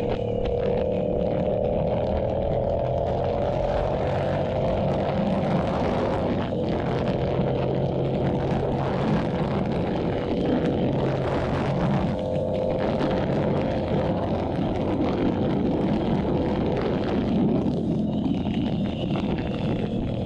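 Yamaha YZF-R7's 689 cc parallel-twin engine through an SC-Project exhaust, cruising at steady speed, with wind rushing past the rider. The engine note rises slightly over the first few seconds, then holds steady.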